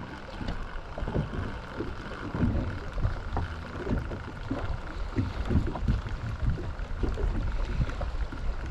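Wind buffeting the microphone and small waves slapping against a small boat's hull, in irregular low gusts and knocks.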